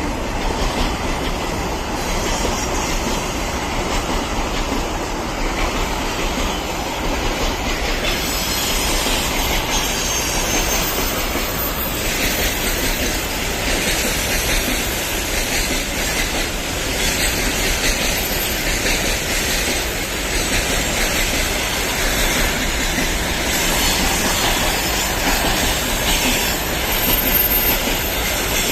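Loaded freight train behind a VL15 electric locomotive rolling past on the rails, its wagon wheels making a steady rumble and rail noise that turns brighter and hissier about eight seconds in.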